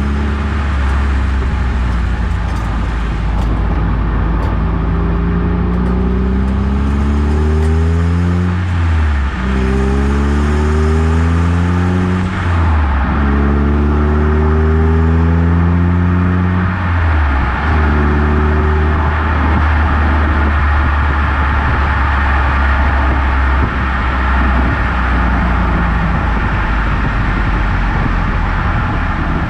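Eunos Roadster (Mazda MX-5) four-cylinder engine accelerating up through the gears, its pitch rising and dropping back at each of about three shifts. After that the car cruises steadily, with tyre and road noise.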